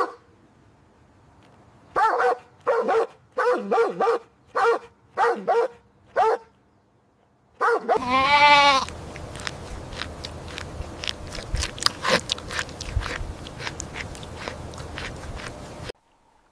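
An animal calling: a run of about seven short pitched calls, then one longer, louder call about eight seconds in, followed by a noisy stretch with many clicks that stops shortly before the end.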